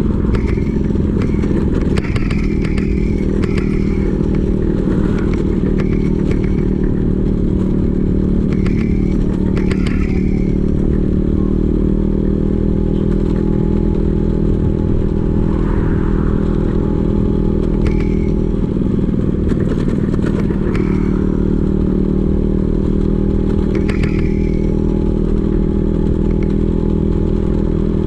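Vespa PX 150's single-cylinder two-stroke engine running at a steady speed through a DRC Victory racing exhaust, a loud, even note that holds one pitch with no revving.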